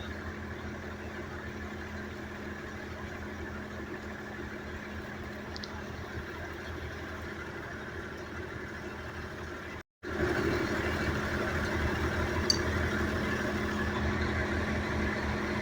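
A vehicle engine idling with a steady hum. The sound cuts out for a moment about ten seconds in and comes back a little louder.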